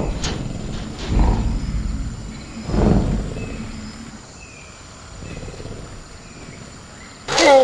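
Designed velociraptor creature sound effect: two deep growls about one and three seconds in, then a loud shriek falling in pitch right at the end, over faint jungle night ambience with small bird chirps.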